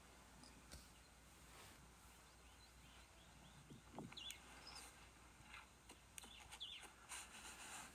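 Near silence: faint outdoor ambience with a few faint, short bird chirps, about four and seven seconds in.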